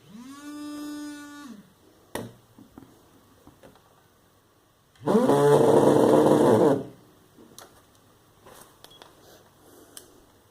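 Sagem myX5-2 mobile phone playing two short ringtones: first a pitched tone that rises and then holds for about a second and a half, then, about three seconds later, a louder, noisier sound lasting nearly two seconds. Sharp clicks fall between and after them.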